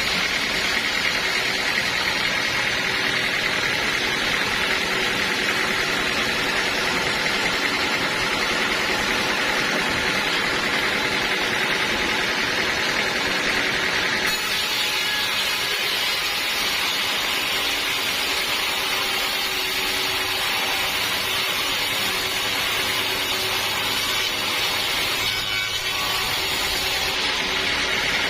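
Sawmill saw cutting through a log, with its motor running steadily under load; the sound changes about halfway through.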